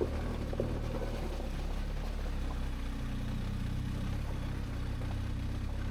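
BMW R1250GSA's boxer-twin engine running steadily at low revs, with no revving. A couple of light knocks come in the first second.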